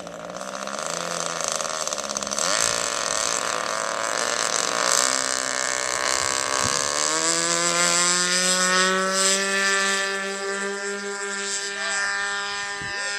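Fuel-burning engine and propeller of a radio-controlled model airplane in flight. Its pitch wavers and glides, rises about halfway through, then holds a steady high drone.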